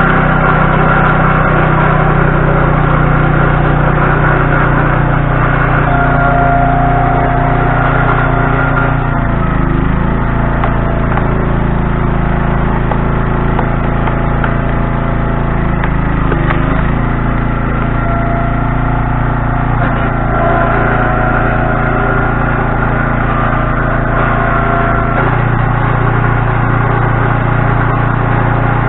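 Engine running steadily at a constant speed. Its pitch sags briefly, as if under load, about 10 seconds and 17 seconds in, and settles into a slightly different note near the end.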